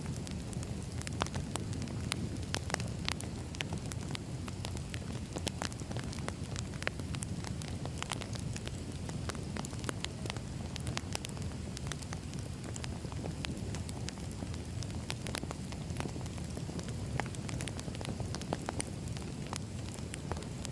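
Firewood burning: a steady low rumble of flames with frequent sharp crackles and pops from the wood.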